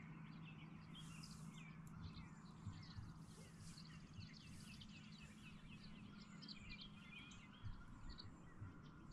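Faint birdsong over near silence: many small birds giving quick chirps and trills, with a faint steady low hum that fades out about seven seconds in.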